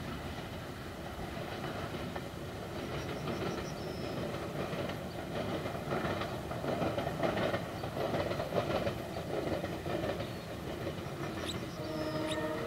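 Freight train of container wagons and milk tank wagons rolling past at a distance, its wheels clicking irregularly over the rail joints. A short pitched tone sounds near the end.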